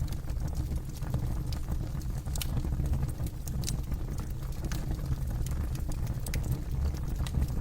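Campfire burning, crackling with irregular sharp pops and snaps over a steady low rumble of flames.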